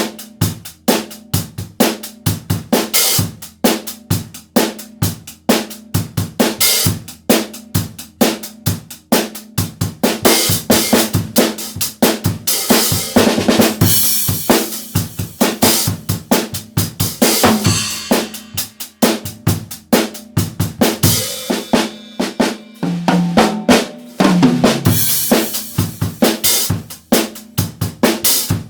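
Yamaha acoustic drum kit played solo: fast strokes on the snare and bass drum with rimshots and cymbals, and a run down the toms about 23 to 25 seconds in.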